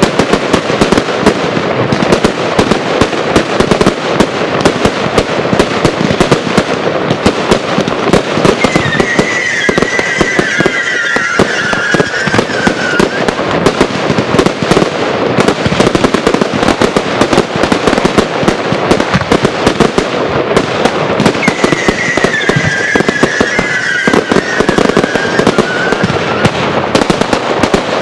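Fireworks display firing without a break: a dense run of bangs and crackling from comets, candles and aerial bursts. Twice a wavering high tone drifts downward over about four seconds above the bangs.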